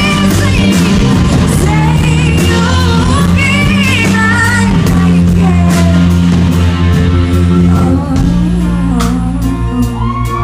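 Live music: a woman singing a melody over a band with guitar, steady held bass notes and drums, heard in a large hall. The backing chord changes about eight seconds in.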